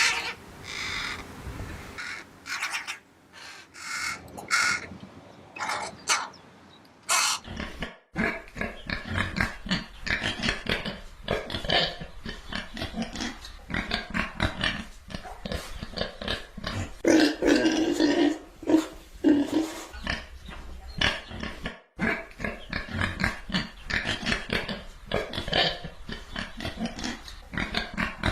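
Pigs grunting, many short calls close together, after a few seconds of separate short animal calls at the start.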